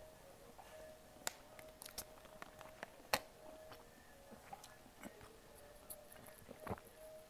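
Faint chewing of grilled yakitori chicken, with scattered sharp clicks and taps, the loudest about three seconds in. A faint steady hum runs underneath.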